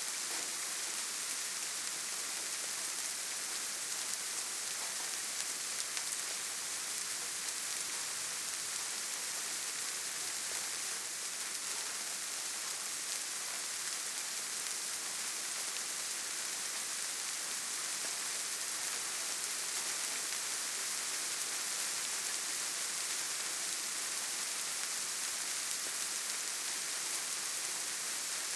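Steady rainfall, an even, unbroken hiss with no single drops, thunder or other events standing out.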